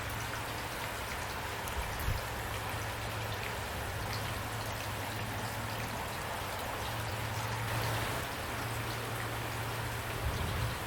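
Steady rain falling, with individual drops ticking distinctly over the even hiss of the downpour. A low steady hum runs underneath, and there are two brief dull thumps, about two seconds in and near the end.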